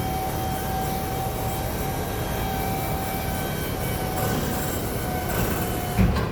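Truck lift gate's electric hydraulic pump motor running with a steady whine as the gate travels, ending in a single clunk near the end.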